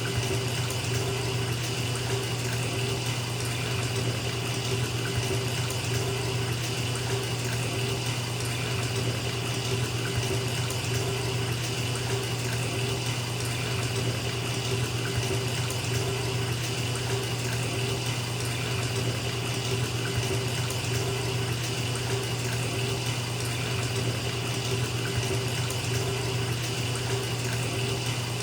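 Bathtub tap running steadily, water pouring into a filling tub in a continuous even rush with a steady low hum beneath it.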